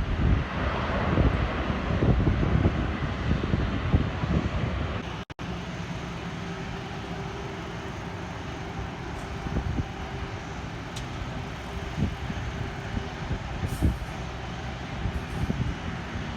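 Jet aircraft engine noise with wind buffeting the microphone. About five seconds in the sound cuts out for an instant, and a steadier, quieter engine hum with a faint steady tone follows.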